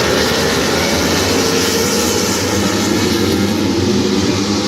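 Racing motorcycle engines running at high revs, a loud steady drone with no break.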